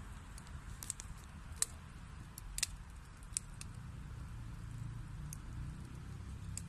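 Wood fire burning in a fireplace: a low steady rumble of flames with scattered sharp crackles and pops from the burning wood, the loudest about a second and a half and two and a half seconds in.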